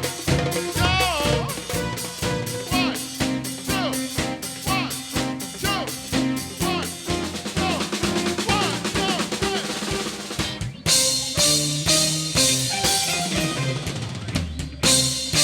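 Reggae band music with drum kit, snare rimshots and a bass line, and pitch glides like a singing voice. About 11 seconds in the drums turn brighter and busier, with more cymbal.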